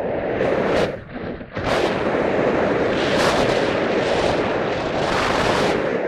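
Wind buffeting the microphone in gusts, a loud rough rumble that dips briefly about a second in, then returns.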